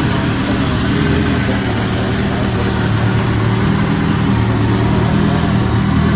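A classic car's engine running steadily at a low, even speed, close to idle and loud.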